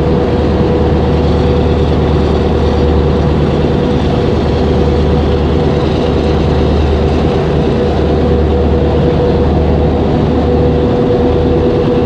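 A heavy engine running steadily: a loud low drone with a constant mid-pitched hum over it.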